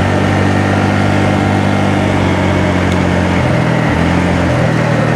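Honda Navi's small single-cylinder four-stroke engine running on the move through its stock exhaust, a steady low note whose pitch drops a little about three and a half seconds in.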